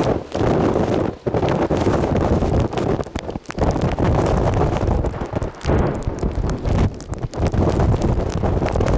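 Strong wind buffeting the microphone: a loud, gusty rumble that drops out briefly a few times.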